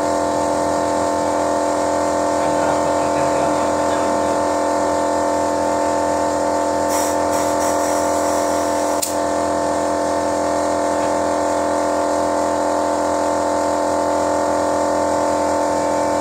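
Toyota Yaris engine running steadily during an engine carbon-cleaning flush, a constant drone of several fixed tones. Brief hisses come about seven and nine seconds in.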